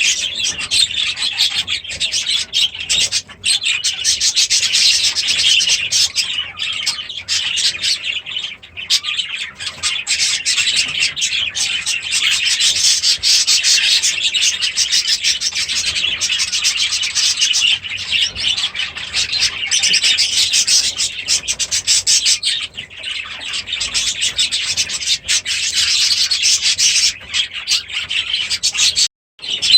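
A room full of budgerigars and Gouldian finches chattering and chirping without a break, a dense, busy chatter. The sound cuts out for a moment near the end.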